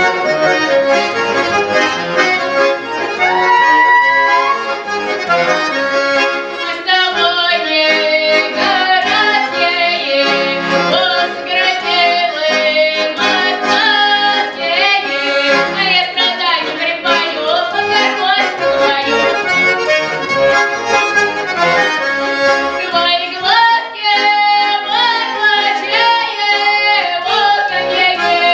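Accordion playing a folk tune, joined from about seven seconds in by a solo voice singing Russian folk ditties (pripevki) over it.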